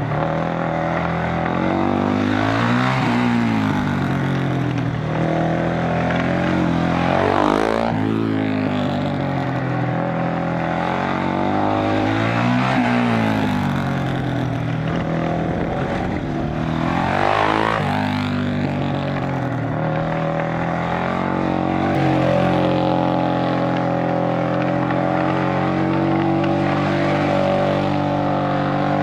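Honda CRF450X-based single-cylinder racing motorcycle engine being ridden hard on a track. The revs fall and climb again four times, then hold a steady high note for the last several seconds.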